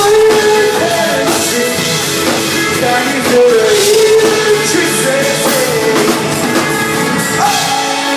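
Live pop-rock band playing, with a drum kit and a sung melody line over the instruments, recorded from the audience.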